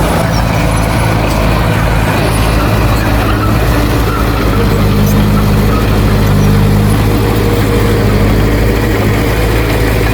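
Heavy earthmoving machine's diesel engine running steadily with a constant low drone, a little louder around the middle.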